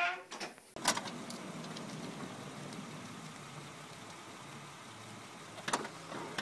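Car engine idling, heard from inside the cabin as a steady low hum. A sharp click comes about a second in, and a short knock near the end.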